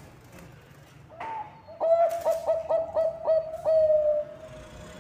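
Zebra dove (Bangkok perkutut) singing its cooing song: a single note about a second in, then a quick run of about six short coos ending in one longer drawn-out coo.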